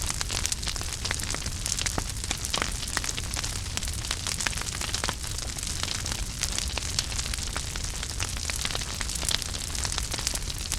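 Wood fire burning in a fireplace: a steady hiss and low rumble with many small, irregular crackles and pops.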